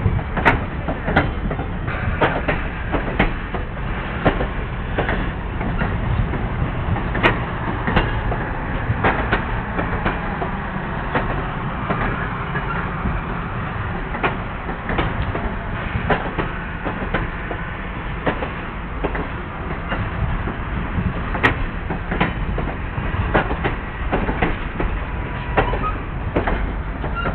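Circus train cars rolling past: a steady low rumble with frequent, irregular clanks and clicks from the wheels.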